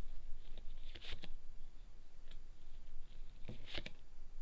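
Fortune-telling cards being drawn and laid down on a table: a few light clicks and slaps, in two short clusters about a second in and again about three and a half seconds in.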